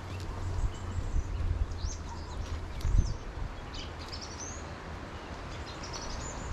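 Small birds chirping in short, scattered high calls, some of them quick rising notes, over a low rumble of wind on the microphone. A single thump about three seconds in.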